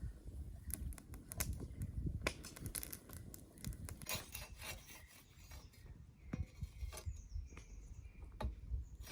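Irregular rubbing and scraping with many scattered sharp clicks and knocks.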